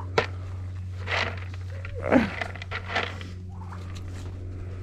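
Pet farm animals feeding: scattered knocks and scuffles, with a short sound falling in pitch about two seconds in, over a steady low hum.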